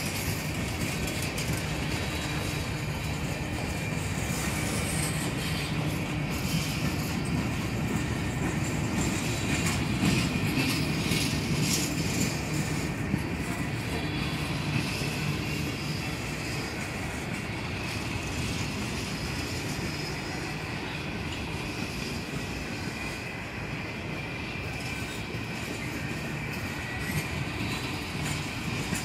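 Freight cars (boxcars, then loaded tank cars) rolling slowly past on jointed track: steady wheel-on-rail rumble and clatter, with a high, steady wheel squeal running over it.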